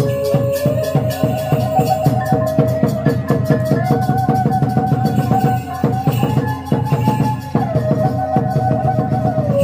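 Khmer chhay yam ensemble playing: a single held melody line that steps up and down between a few notes, over fast, dense drum and cymbal strokes.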